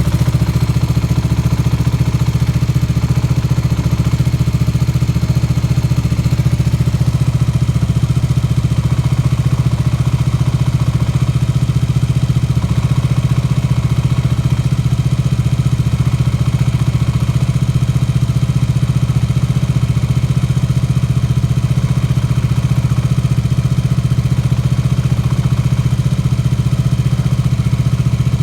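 KTM Duke 125's single-cylinder four-stroke engine idling steadily. It carries the noise its owner hears from the left side of the engine whenever the clutch is let out, a noise that goes away when the clutch lever is pulled in.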